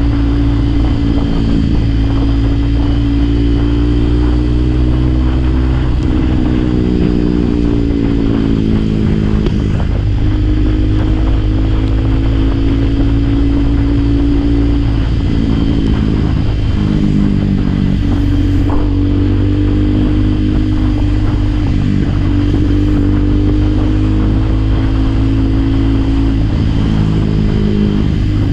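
Motorcycle engine running under way, its pitch rising and falling several times with the throttle, over a steady heavy low rumble.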